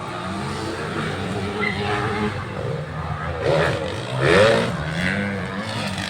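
Motocross dirt bike engines revving and running, their pitch rising and falling, with a louder rev about four seconds in.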